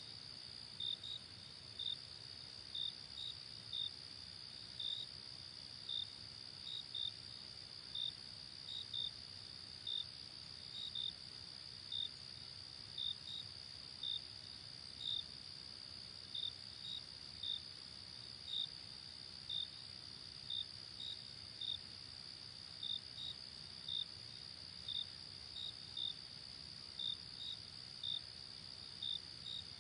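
Night crickets chirping: short, high chirps about one to two a second, some in quick pairs, over a continuous high insect trill.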